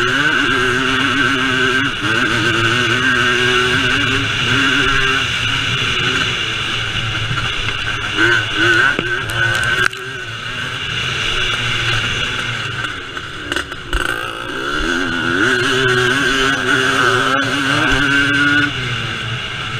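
Vintage motocross motorcycle engines revving, the engine note rising and falling repeatedly as the bikes accelerate and back off.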